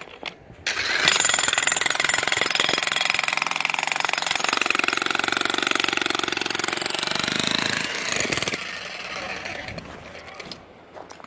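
Jackhammer breaking up part of a concrete platform. It starts about a second in, runs loud and steady for several seconds, then stops, leaving a quieter tail near the end.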